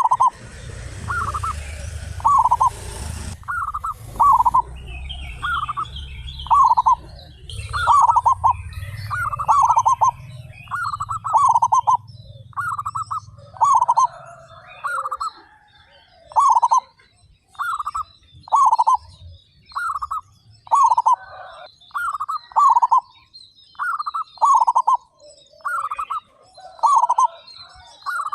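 Several zebra doves (perkutut) cooing, their short phrases repeating about once a second and often overlapping one another. Small birds chirp faintly and high-pitched in the background, and a low rumble runs under the first half.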